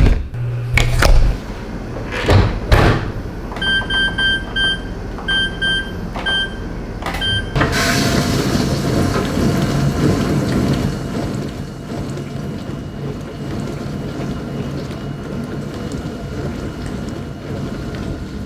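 A dishwasher gives a few clunks and knocks, then its control panel beeps several times as buttons are pressed. About eight seconds in it starts up with a swelling rush of water that settles into a steady wash noise.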